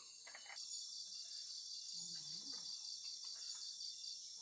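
A chorus of insects chirping steadily and high-pitched, pulsing several times a second.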